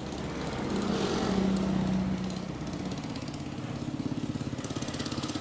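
A small engine running, loudest a second or two in and then settling to a steady, even throb.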